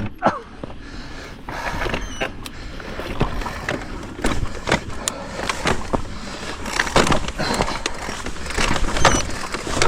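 Mountain bike rolling over a rocky trail: tyres crunching on stone with scattered knocks and rattles from the bike, and rushing noise.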